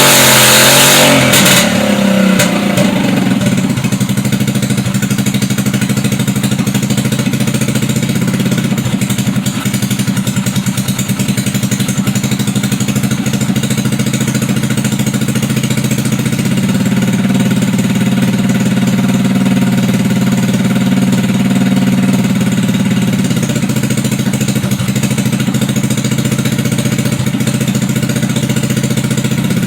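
GY6 150cc single-cylinder four-stroke scooter engine, fitted with a PWK 28 mm slide carburetor, running on a test bench. It is revved high at first, then drops back about two seconds in and runs steadily at a low speed, with slight rises in speed partway through.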